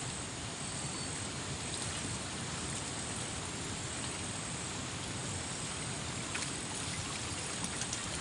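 Stream water running steadily, an even, unbroken rush.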